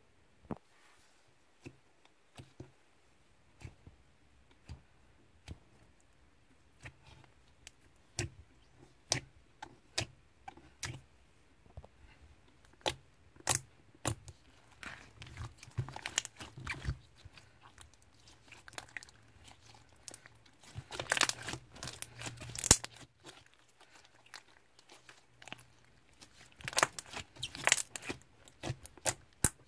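Slime being played with by hand, making scattered sharp clicks and pops, with denser stretches of crackling about halfway through and again near the end.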